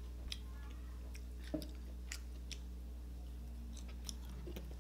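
Close-miked chewing of grilled meat: scattered faint, wet mouth clicks over a steady low hum.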